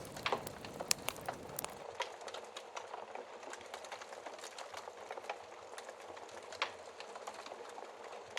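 Log fire crackling, with irregular sharp pops over a steady hiss of rain. About two seconds in the low rumble drops out, leaving only the higher hiss and crackles.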